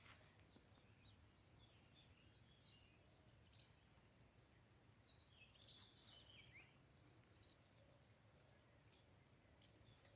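Faint birdsong: scattered short chirps and a few twittering phrases, with a brief busier passage a little past the middle, over a faint steady low background hum.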